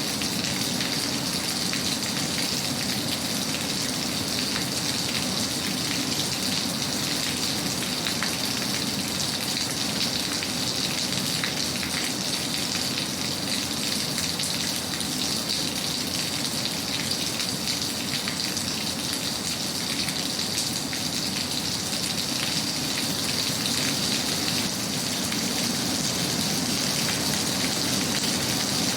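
Steady rain, a continuous hiss full of fine drop ticks, used as a calming background sound.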